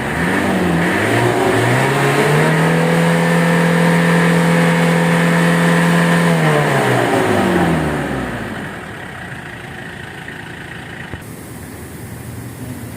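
Vehicle engine revved up, held at high revs for about four seconds, then let back down to idle about eight seconds in. It is being run hard during a muffler cleaning to blow soot and soapy residue out of the exhaust.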